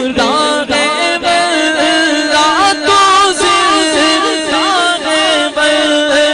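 Devotional naat singing: a male voice in an ornamented, gliding melody over a steady low drone.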